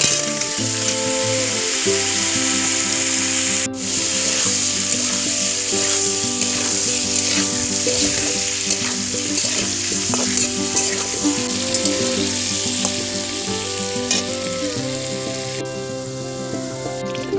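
Chicken cooking in hot oil and spices in a pan, frying with a steady sizzle, under background music.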